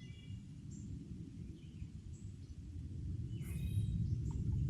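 Outdoor river ambience: a steady low rumble that grows louder about three seconds in, with several short, high bird chirps and calls over it.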